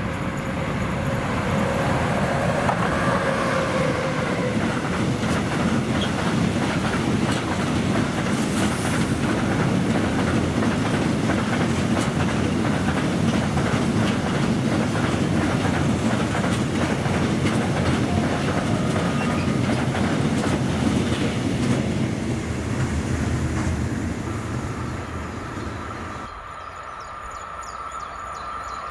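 Long freight train of covered hopper wagons, hauled by an ÖBB electric locomotive, rolling past close by: a heavy, steady rumble with a constant clickety-clack of wheels over the rail joints, fading as the last wagons go by. About 26 seconds in it gives way to a quieter sound with a steady high tone as an HŽ series 1142 electric locomotive approaches with passenger coaches.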